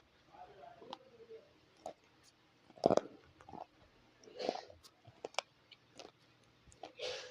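Brittle broken pieces of black and white slate being bitten and chewed up close, in irregular sharp cracks and crunches. The loudest bite comes about three seconds in, with longer crunching bouts around four and a half seconds and near the end.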